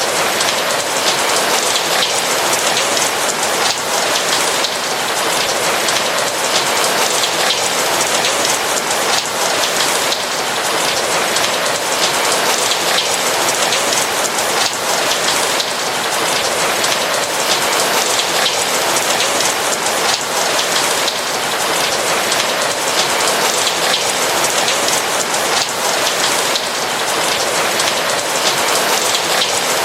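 Steady rain falling, a dense, even patter of raindrops with no breaks or thunder.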